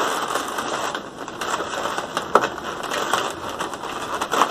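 Inflated latex balloons rubbing and rustling against each other as they are handled, with scattered sharp clicks.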